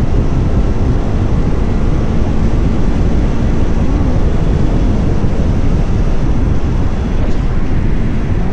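Motorcycle riding at speed: steady road and wind noise with the engine's hum underneath, with a slight change in its pitch about four seconds in.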